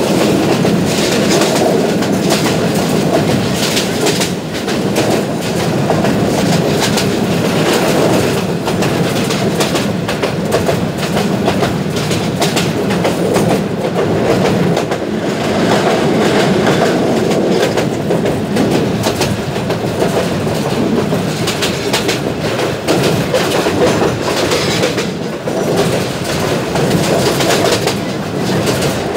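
Passenger train running at speed, heard from on board: a steady rumble with the wheels clattering over the rail joints.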